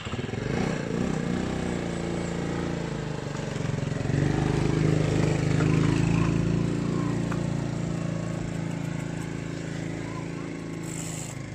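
A small motor engine running steadily, growing louder about four seconds in and then slowly fading, like a vehicle passing close by.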